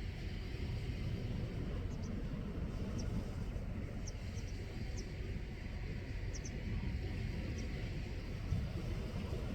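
Steady low outdoor rumble, with small birds giving brief high chirps several times.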